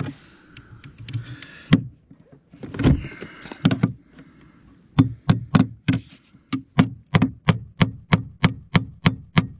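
Hammer driving a small nail through a fibre-cement artificial slate panel: a few scattered knocks and handling noise, then from about halfway through a fast, even run of about twenty hammer strikes, roughly four a second.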